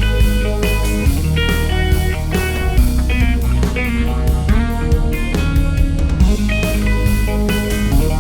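Electric guitar played through an EarthQuaker Devices Grand Orbiter phaser pedal, its notes ringing over a backing of electric bass and drum kit.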